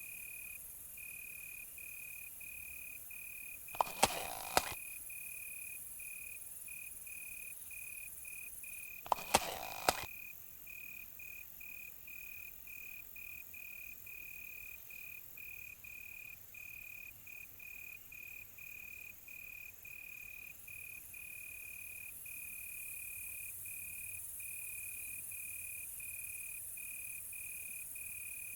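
Crickets chirping in a steady, even rhythm that merges into a continuous trill about two-thirds of the way through, over a high hiss of further insects. Two clusters of sharp knocks stand out at about four seconds and about nine seconds in.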